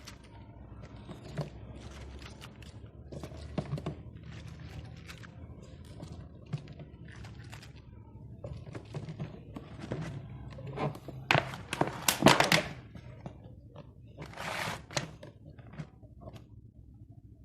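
Kitchen handling sounds from food preparation: scattered light knocks and clicks, with a louder noisy burst about eleven seconds in and another shorter one a couple of seconds later.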